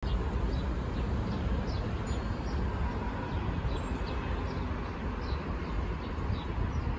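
A small bird chirping over and over, short high falling chirps about twice a second, over a steady low rumble of road traffic.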